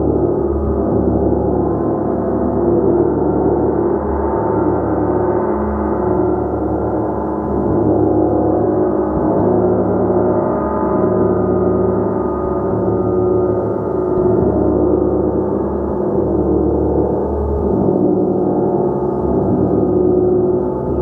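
Gong played continuously: a dense, sustained wash of many overlapping ringing tones with slow, gentle swells in loudness.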